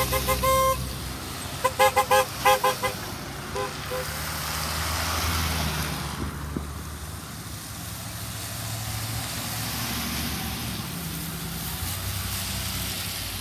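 Truck horn honking: one short honk, then a quick series of about five short toots. Then heavy truck engines rumble as trucks drive past, the sound swelling and fading twice.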